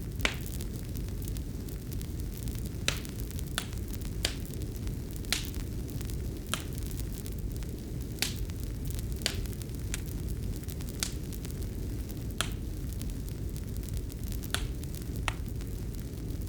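Fireplace fire crackling: a steady low rumble with about a dozen sharp pops at irregular intervals.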